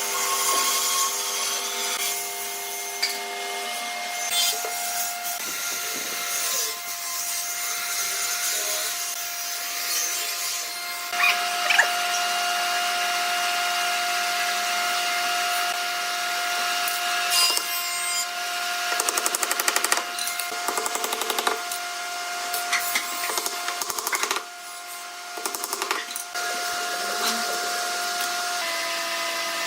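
Electric power tools running on wood: a steady motor whine that shifts in pitch several times, with stretches of rapid clicking about two-thirds of the way through.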